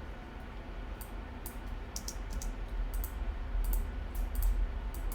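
Scattered light clicks from a computer keyboard and mouse, over a steady low hum.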